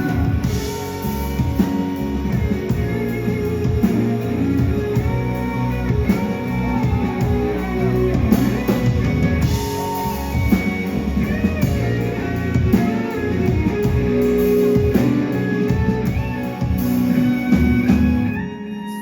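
Live band playing an instrumental passage of a ballad, guitar to the fore over drum kit and bass. The band drops away near the end.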